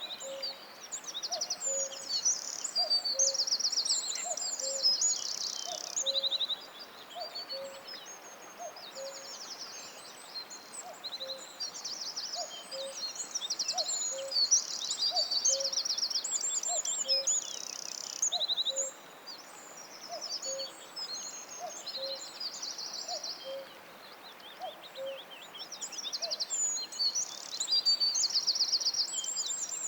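Several songbirds singing in forest, a dense chorus of high trills and phrases, with a low two-note hooting call repeated about once a second that stops near the end.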